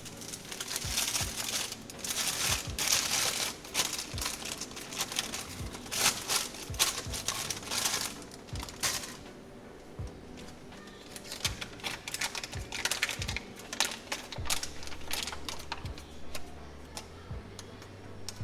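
Kitchen preparation handling sounds: dense crinkling and rustling for the first half, then scattered light clicks and taps, over faint background music.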